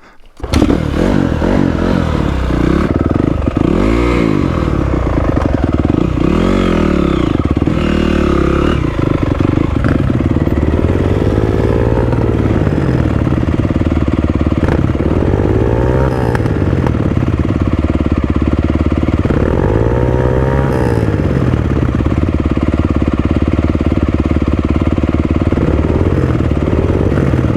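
Honda CRF250R dirt bike engine catching about half a second in, then running loud and close, its revs rising and falling again and again.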